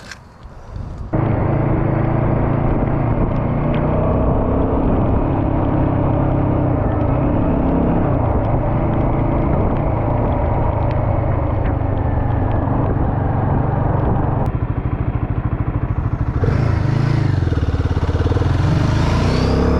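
Royal Enfield Guerrilla 450's single-cylinder engine running under way, starting abruptly about a second in, its pitch shifting with speed and gears. It eases off briefly near the end, then picks up again, louder.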